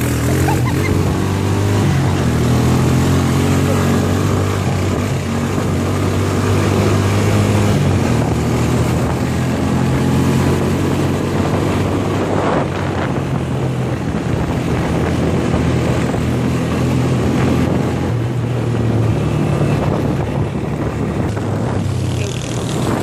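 ATV engine running steadily as the four-wheeler is ridden, its note shifting up and down a few times with the throttle.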